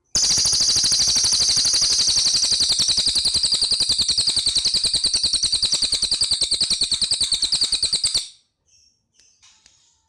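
Cililin bird singing one long, rapid, machine-gun-like trill of evenly spaced high notes that stops abruptly about eight seconds in, followed by a few faint short chirps.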